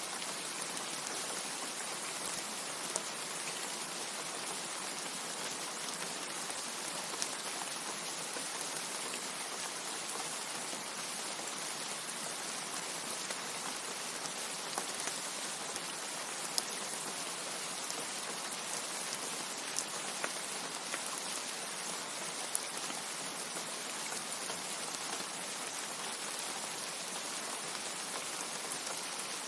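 Steady rain falling: an even hiss with little low end, broken by a few sharp drip ticks.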